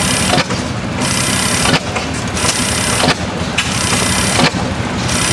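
1900 Reid 12 HP oil-field engine running slowly, with a steady low chug and a long hissing exhaust puff about every second and a half.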